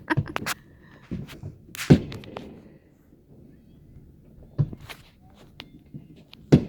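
Fireworks bursting: a series of sharp bangs at irregular intervals, the loudest about two seconds in and another strong one near the end.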